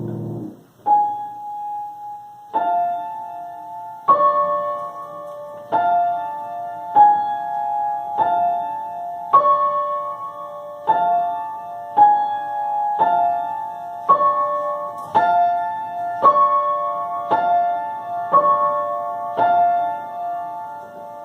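Piano playing a slow, repeated pattern of high notes, about one struck note or chord a second, each left ringing as it fades.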